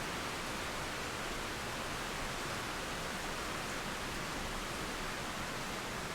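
Steady rain falling, an even hiss with no thunder or other distinct sounds.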